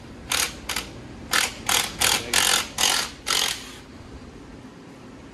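A workshop tool run in about eight short hissing bursts over three and a half seconds, then stopping.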